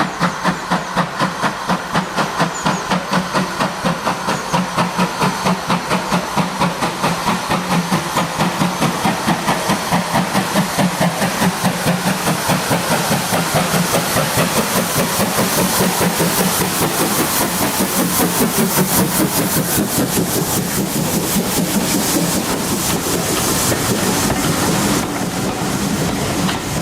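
GWR 5600 class 0-6-2T steam tank locomotive No. 6695 working under steam, its exhaust beats quickening from about three a second and growing louder until they run together into a steady rush as the train gathers speed.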